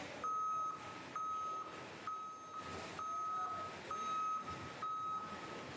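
Wheel loader's reversing alarm beeping at one steady pitch, about once a second, each beep about half a second long, over the noise of the machine.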